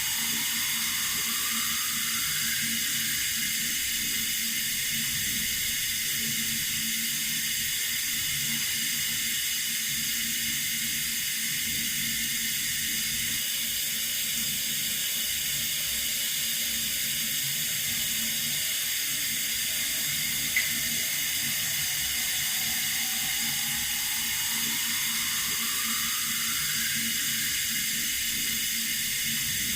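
Running water, a steady even hiss. A faint rising tone comes in twice, and there is one brief click about two-thirds of the way through.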